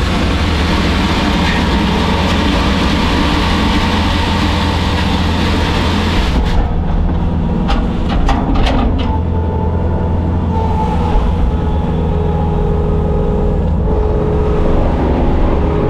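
Bobcat skid steer's diesel engine running steadily under work, with a whining tone that shifts in pitch. A few sharp metallic knocks come between about six and nine seconds in.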